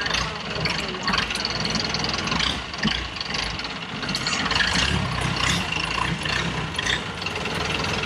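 Boat engine idling steadily, with scattered knocks and clatter over it.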